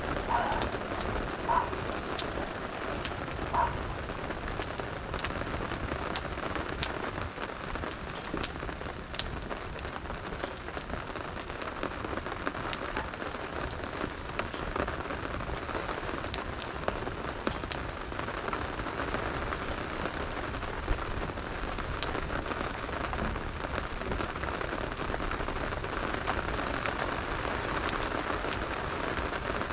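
Steady rain falling, with a wood fire crackling in scattered sharp pops.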